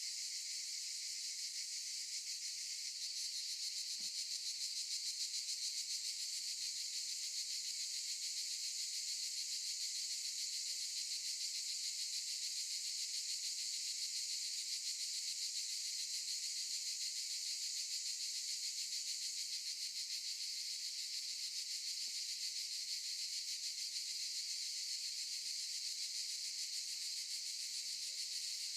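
A chorus of cicadas buzzing steadily: a dense, high, fast-pulsing drone with no pauses.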